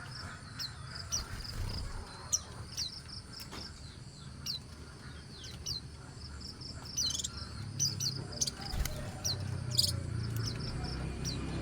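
Small birds giving short, high chirps at irregular intervals, over a steady, fast-pulsing high insect trill.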